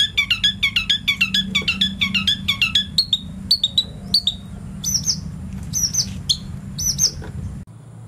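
A songbird singing: a fast run of sharp chirps, about five a second, that changes after about three seconds to slower, higher calls spaced about half a second apart, with a low steady hum underneath. It cuts off just before the end.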